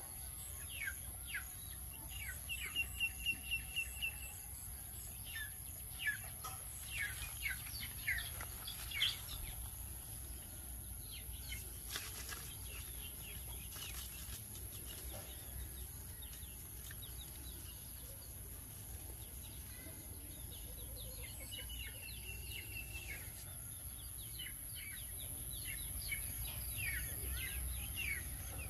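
Small birds chirping at intervals, with a couple of short high trills and a run of quick chirps about three seconds in, over a faint steady outdoor background.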